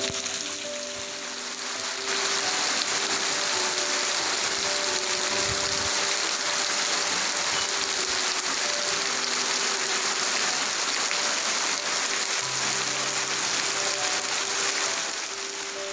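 Heavy rain falling steadily on a garden, a dense hiss, with soft background music faintly underneath.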